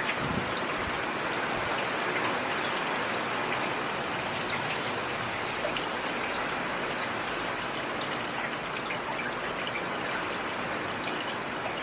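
Steady rain falling, a continuous hiss with many small drops ticking through it.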